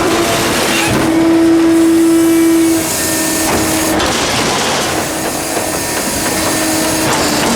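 Hydraulic pump of a Loadmaster front-loader garbage truck whining steadily over a hiss. The whine is loudest for a couple of seconds, then drops back and wavers.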